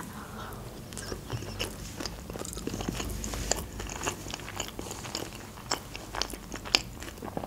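Close-miked chewing of a mouthful of sushi roll, with many small wet clicks from the mouth.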